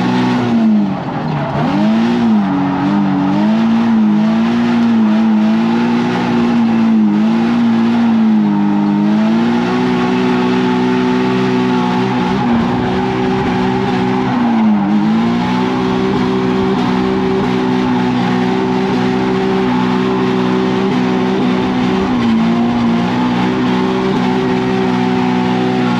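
Nissan 350Z drift car's V6 engine at high revs under throttle, the revs swinging up and down quickly for the first several seconds, then held fairly steady with short dips about 15 and 22 seconds in. Tyres squealing as the car drifts.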